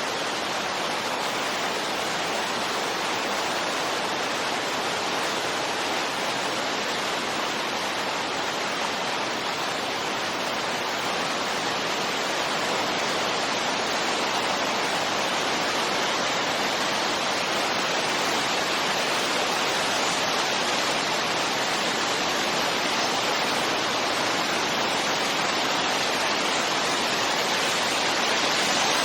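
Steady wind noise used as white noise: an even, unbroken hiss with no gusts or distinct events, growing slightly louder near the end.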